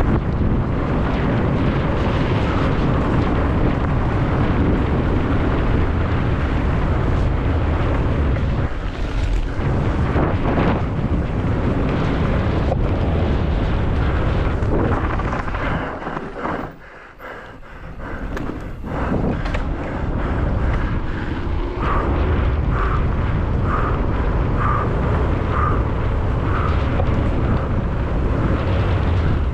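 Mountain bike descending at race speed: wind buffeting the microphone over the rattle of tyres, chain and frame on rough ground. The noise drops away sharply for a second or two a little past the middle, then picks up again.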